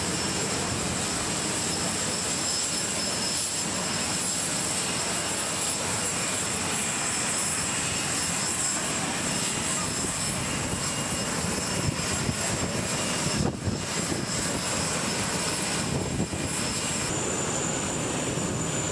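Jet aircraft engines running in a steady, unbroken roar with a faint high whine on top.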